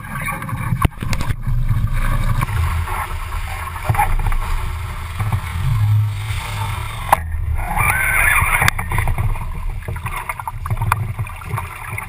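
Wind buffeting the GoPro's microphone and water rushing and splashing along a Laser sailing dinghy's hull while under sail, with a couple of sharp knocks.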